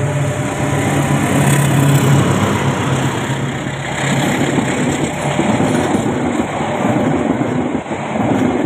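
Diesel locomotive passing at close range: a loud, steady engine drone, loudest about two seconds in, that gives way after about five seconds to the rumble of the passing train cars.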